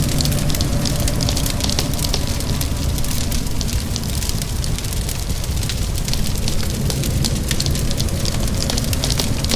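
Wood fire crackling with many small sharp pops over steady rain and a deep, constant low rumble.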